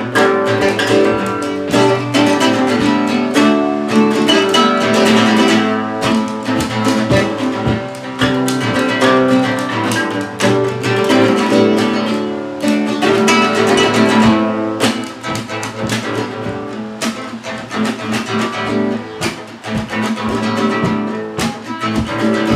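Instrumental music led by acoustic guitar, busy strummed and picked chords with no singing.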